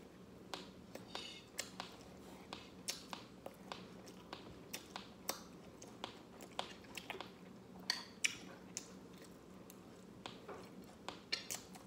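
Close-up chewing of dukot, the crisp scorched rice crust from the bottom of the pot, eaten with chicken: a run of irregular sharp crunchy clicks and mouth sounds, roughly one to three a second.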